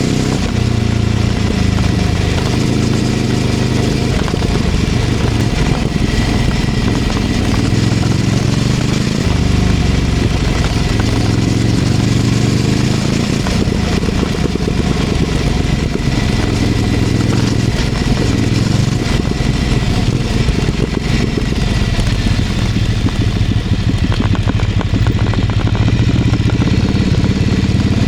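Ducati Scrambler 800's air-cooled L-twin engine through a LeoVince LV-10 aftermarket exhaust, heard from the bike while riding city streets. The engine note climbs under throttle and drops back several times as the rider accelerates and eases off.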